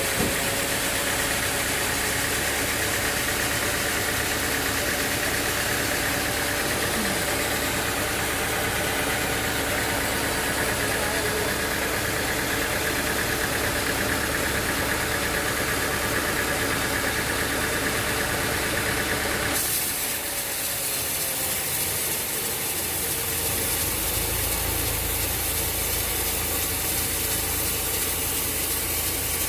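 Sawmill machinery running steadily, an engine running under a continuous mechanical hum. About two-thirds through the sound changes abruptly to a brighter hiss, and a low rumble comes back a few seconds later.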